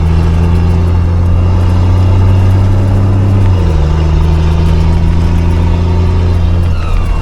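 A 5-ton military truck's engine running under load on a mountain climb; its note steps down in pitch about halfway through.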